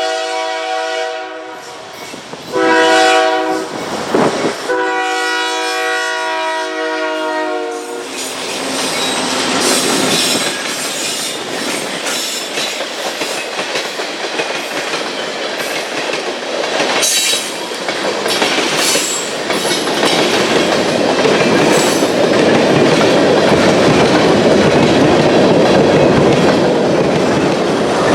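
Freight train led by a CN C44-9W diesel locomotive sounding its horn: a blast that ends about a second in, a short one around 3 s, then a longer one until about 8 s. The locomotives and freight cars then pass close by with a steady rumble and rapid wheel clicks over the rail joints.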